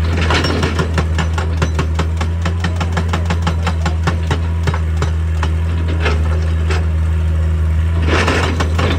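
Excavator's diesel engine running under load while a hydraulic breaker hammer pounds rock in a fast run of sharp knocks, about eight to ten a second, with two short noisy surges, one just after the start and one near the end.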